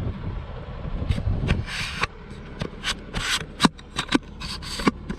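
A low rumble fades out about a second in. It gives way to irregular rubbing and scraping with a string of sharp clicks.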